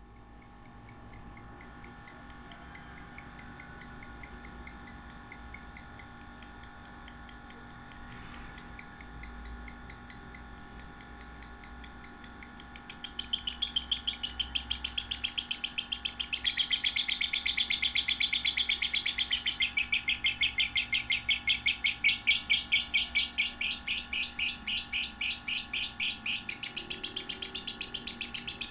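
Young lovebirds, 1 to 3 months old, chirping in a rapid even series of high calls, about three a second. The chirping grows louder and fuller about halfway through.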